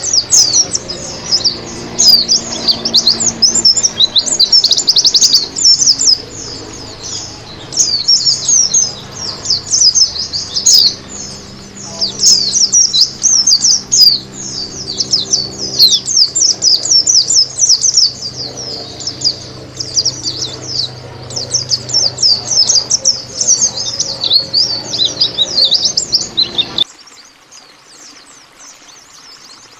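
White-eye (pleci, Zosterops) singing a fast, high, continuous twittering song of rapid chirps, which stops abruptly near the end, leaving only a faint background.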